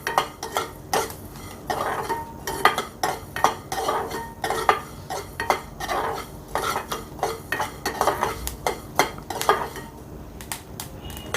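Metal spoon stirring and scraping whole spices, coriander and mustard seeds, around a kadai as they roast, giving irregular clinks and scrapes throughout.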